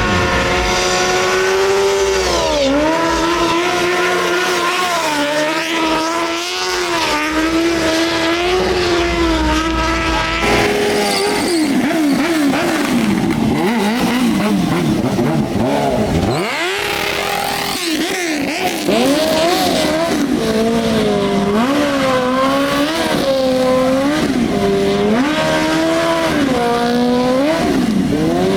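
Suzuki K2 drift bike's engine revving hard, its pitch climbing and falling again and again; later in the clip the revs rise and drop in a regular pattern about every second and a half.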